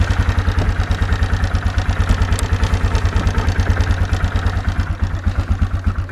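2004 Yamaha Kodiak 450 ATV's single-cylinder four-stroke engine idling with a steady, even pulse while it warms up after a cold start.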